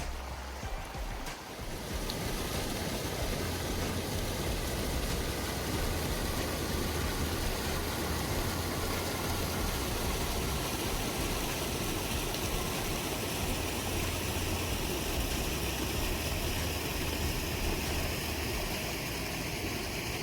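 Waterfall's steady rush of falling water, with a low rumble underneath, coming in fully about two seconds in.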